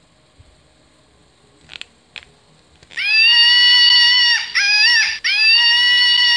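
A shrill, scream-like call is repeated three times: a long held cry, a short wavering one, then another long cry. Two faint clicks come before it.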